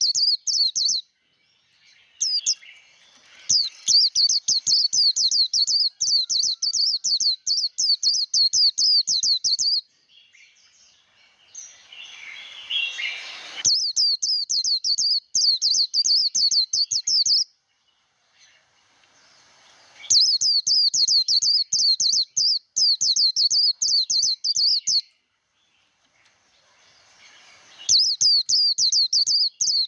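A white-eye singing the rapid, high, chattering 'líu' song that keepers call a fighting song, in bursts of several seconds broken by short pauses. A brief rushing noise comes between two bursts about halfway through.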